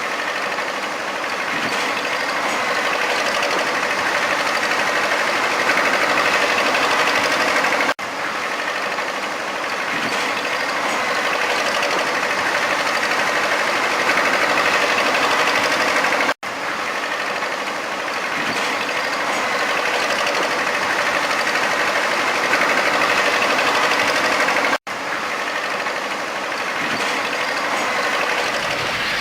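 Steady mechanical running noise, broken by brief sudden dropouts about every eight seconds.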